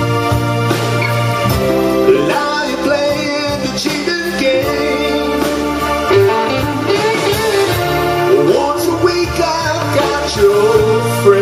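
Live blues band playing a slow ballad: sustained guitar and a steady bass line under a wavering melody line.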